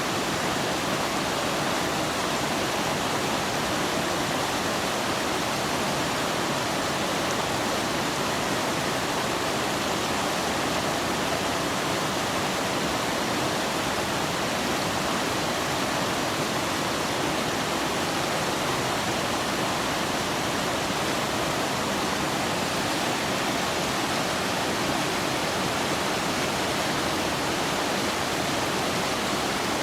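Rushing water running steadily, a constant full hiss with no breaks or changes.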